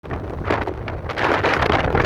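Wind buffeting the microphone on a moving bike, gusting unevenly over a low rumble.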